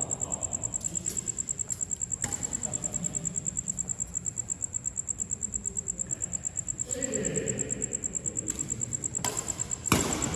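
Insect chirping in a steady, rapid, high-pitched pulse, about eight pulses a second. A few sharp hits break through, the loudest near the end.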